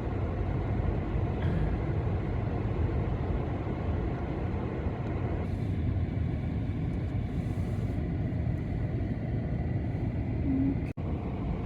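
Gale-force wind buffeting the microphone as a steady low rumble, over big lake waves surging against the shore. The sound cuts out for an instant near the end.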